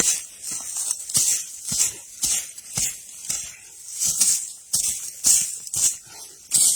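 An axe striking and scraping into stony soil to dig out a root, about ten irregular strokes, each with a gritty hiss of scattering dirt.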